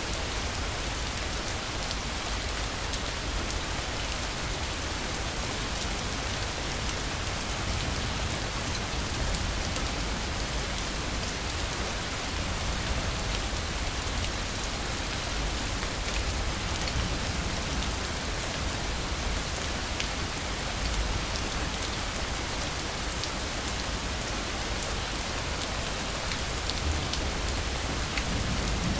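Steady, heavy rain falling: an even hiss with scattered ticks of individual drops and a low rumble underneath, unchanging throughout.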